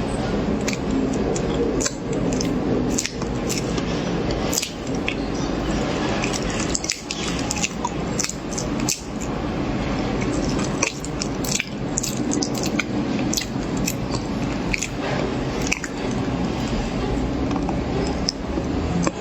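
Close-miked eating of corn: wet chewing with many small crunches and clicks, going on steadily throughout, over a steady background hum.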